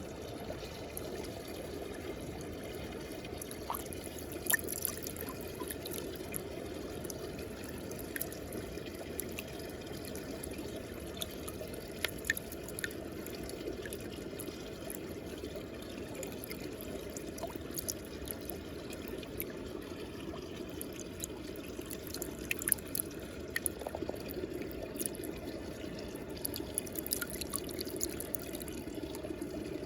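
Muddy water swirling in a whirlpool, a steady low rush with scattered drips and small splashes.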